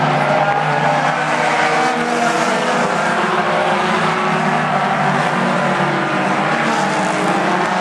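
Several mini stock race cars running at racing speed around a short oval track, their engines overlapping in a steady, continuous sound.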